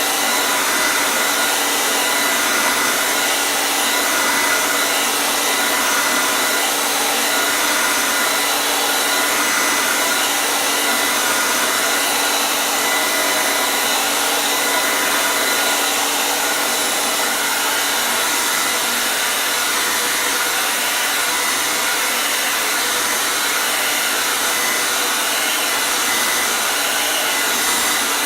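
Hair dryer running steadily, a continuous airy hiss with a faint steady whine.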